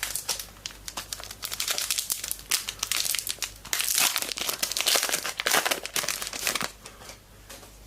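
Foil trading card pack wrapper being torn open and crinkled by hand, a dense run of crackling that dies down about seven seconds in.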